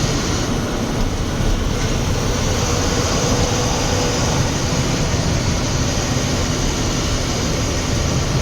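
Steady engine and road noise of a moving lorry, heard from inside its cab.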